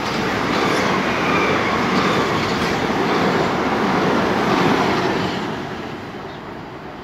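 Southern Class 377 Electrostar electric multiple unit passing through a station at speed: wheel and rail noise builds, holds for about five seconds, then fades as the train goes by.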